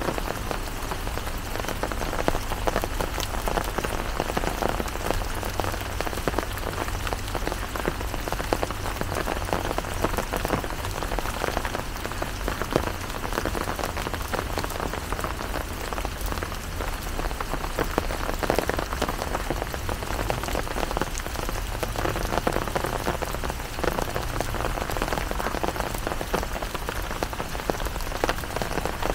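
Steady rain falling, with many close drops ticking individually over the hiss and a low steady rumble underneath.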